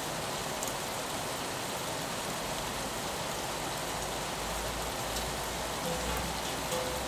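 Steady rain on window glass, an even hiss with a few faint drop ticks. A low rumble rises underneath from about four seconds in.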